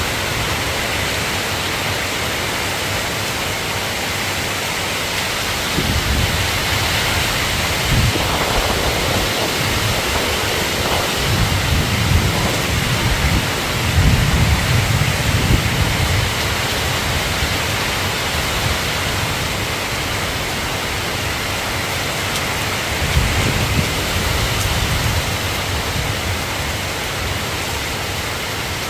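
Steady rain hiss with low rolling thunder rumbling several times, loudest about halfway through and again briefly near the end.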